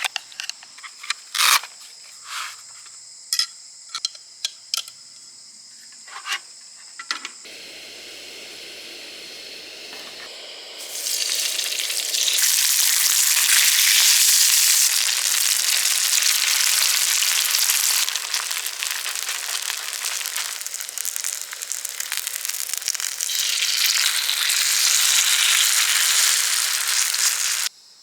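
A few light clicks and taps, then from about eleven seconds in loud, steady sizzling of food frying in a hot pan.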